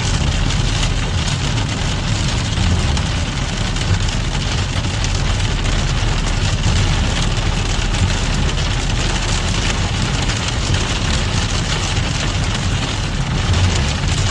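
A vehicle engine running steadily with a low rumble, under a constant hiss.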